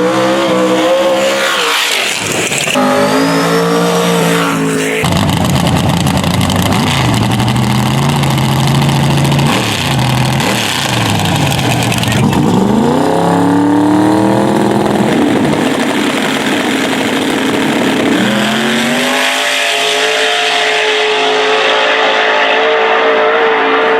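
Drag racing car engines revving and running hard, the pitch repeatedly climbing and dropping, then holding a steady high note over the last few seconds.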